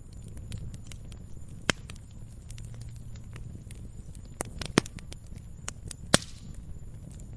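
Campfire crackling: burning wood giving off many small sharp snaps over a low steady rumble, with three louder pops about two, five and six seconds in.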